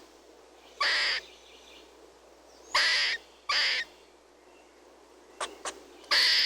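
Four short, harsh animal calls, each under half a second, spaced one to three seconds apart, with a few faint clicks before the last one.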